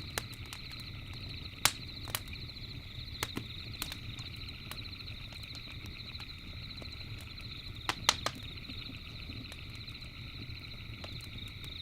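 Campfire crackling, with sharp irregular pops, a cluster of them about eight seconds in. Behind it runs a steady, high-pitched, trilling night chorus.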